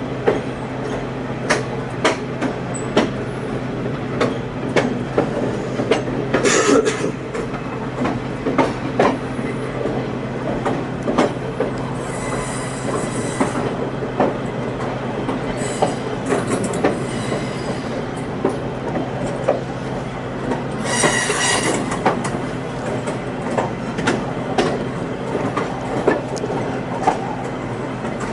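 Passenger train running along the track: a steady rumble with a low hum, frequent sharp clicks from the wheels over rail joints, and four bursts of high-pitched wheel squeal, the longest near the middle, typical of the flanges rubbing on curves.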